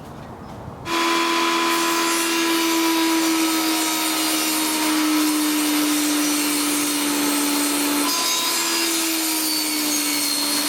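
Handheld power tool running as it cuts, its motor holding a steady hum that sags slightly in pitch. It starts about a second in, breaks briefly near the eighth second and comes back at a slightly higher pitch.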